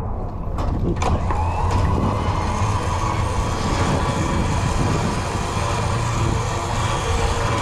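A vehicle engine running steadily with a whine over it that rises about a second in, holds level and starts to drop near the end.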